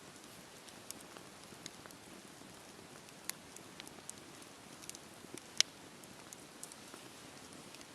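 Wood fire crackling: a faint steady hiss with sharp, irregular pops, the loudest about five and a half seconds in.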